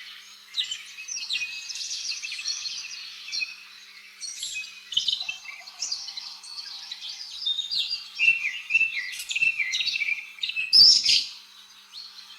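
Birdsong: many quick, varied chirps and short trills, busy and overlapping, with a louder burst of calls near the end.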